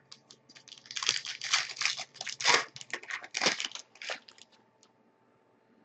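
Hockey card pack wrapper being torn open and crinkled: a run of crackling and tearing for about four seconds that then stops.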